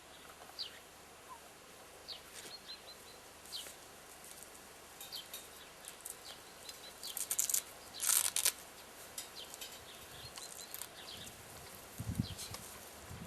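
Small birds chirping in short, high calls, some in quick runs. There are louder bursts of rustling about seven to eight and a half seconds in, and low thumps near the end.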